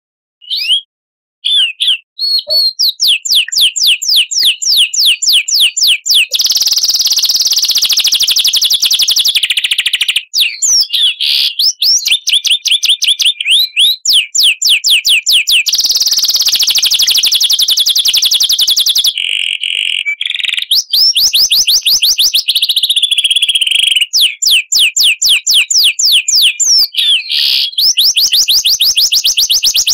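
Recorded songbird song for training caged birds: long runs of fast, high-pitched repeated chirps and trills, broken by short pauses. These are the long rapid-fire 'nembak' phrases used in masteran. A couple of short chirps come first, then the song runs on almost without a break.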